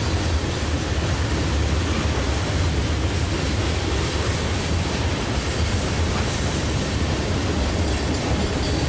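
Freight train rolling past, a steady rumble and rush from its wheels on the rails.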